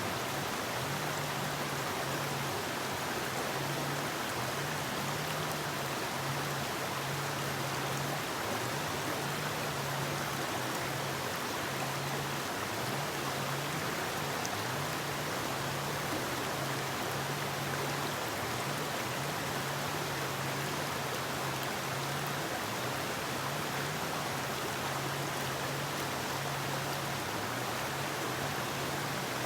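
Forest river flowing: a steady rush of water, with a low hum underneath that keeps breaking in and out.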